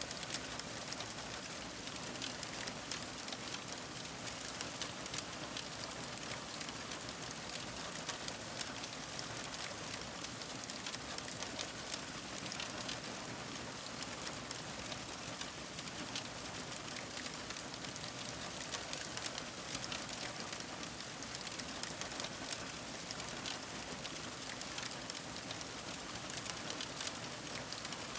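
Fire crackling: a dense, steady stream of small pops and snaps over a soft hiss.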